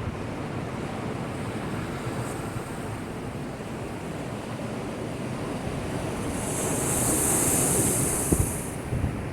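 Storm-driven rough sea: heavy waves washing against a breakwater in a steady rush. About six seconds in, a wave builds with a loud hissing surge, and a couple of short sharp thuds follow near the end.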